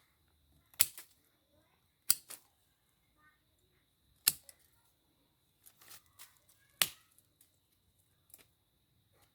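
A series of sharp clicks or snaps: four loud ones at uneven gaps of one to two and a half seconds, with fainter clicks between them.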